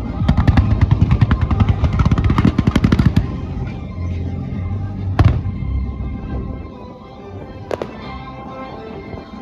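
Fireworks bursting over loud show music. A rapid crackling rattle of many quick bangs lasts about three seconds, then two single sharp bangs come about five and eight seconds in, the first of them the loudest.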